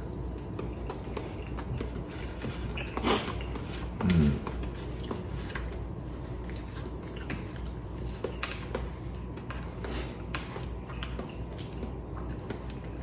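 A man chewing a mouthful of rolled omelette, with small clicks and scrapes of chopsticks on a plastic bento tray as he picks up the last bits. Two short vocal sounds come about three and four seconds in.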